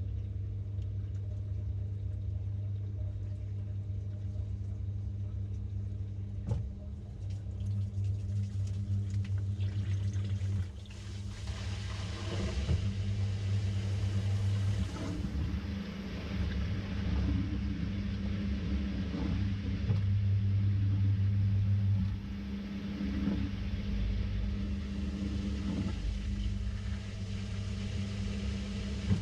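Samsung 6.5 kg top-load washing machine running mid-cycle, heard from inside the drum: a steady low motor hum with water and laundry churning, the churning growing busier about a third of the way in.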